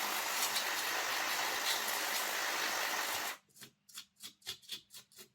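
Aerosol cleaning spray hissing in one long, steady burst of about three seconds onto a greasy model locomotive motor, then stopping sharply. A quick run of short bursts, about four a second, follows near the end.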